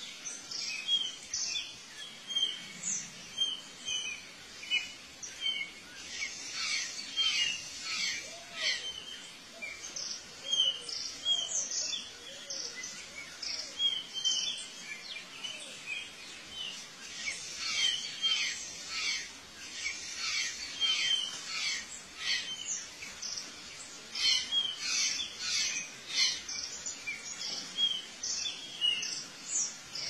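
Birds chirping: many short, high chirps and whistled notes in quick succession, often overlapping, with a few fainter lower whistled glides now and then.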